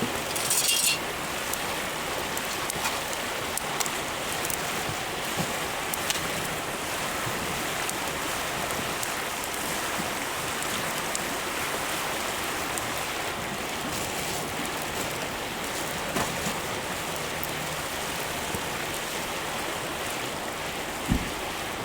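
Wood fire of lumber offcuts burning with a steady hiss and scattered sharp crackles and pops, a brief louder crackle about half a second in and a dull knock near the end.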